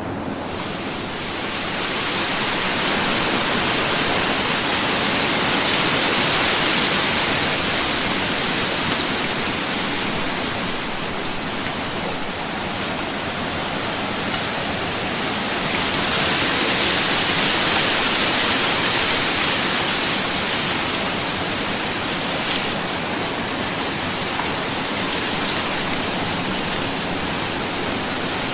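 Ocean waves washing onto a beach in a continuous hiss that swells slowly twice, about six and seventeen seconds in.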